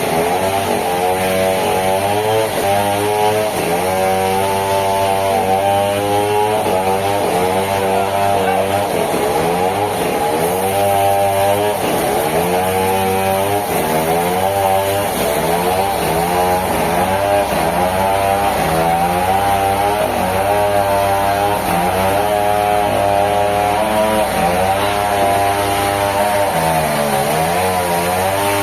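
A sawmill's engine-driven saw running loud and continuously, its pitch dipping and recovering again and again as the load comes and goes.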